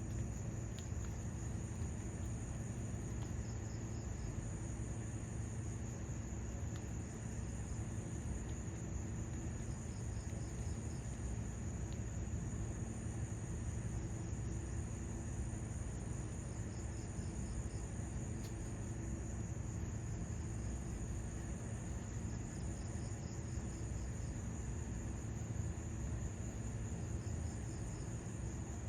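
Insects trilling steadily in a high, even drone, with short pulsed chirps now and then, over a low steady hum.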